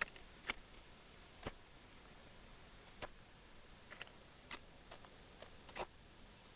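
Faint, sharp, irregular clicks and scrapes, about one or two a second: the steps of MSR Evo snowshoes on a snowy, icy slope.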